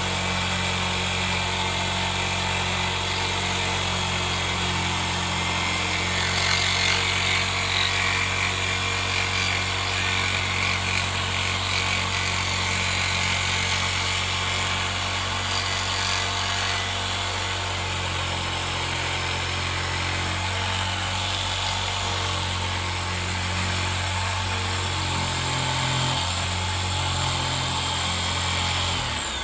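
A power tool running steadily with a constant grinding, cutting noise over a low motor hum, dying away at the very end.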